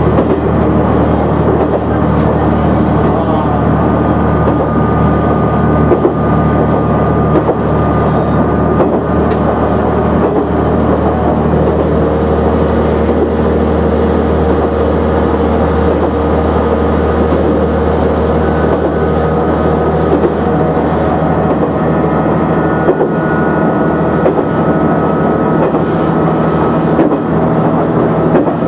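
KiHa 100 series diesel railcar running at speed, heard from inside the car: a steady diesel drone with a held whine partway through and occasional wheel clicks over rail joints.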